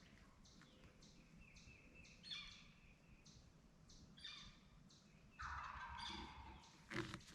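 Wild turkey tom gobbling at a distance: a few faint rattling gobbles, the loudest and longest about five and a half seconds in.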